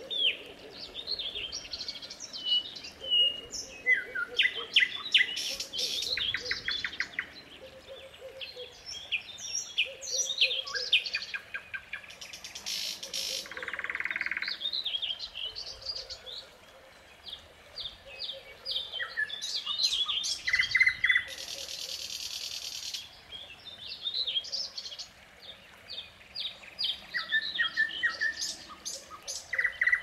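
Several songbirds singing and chirping at once, overlapping songs, trills and repeated short calls.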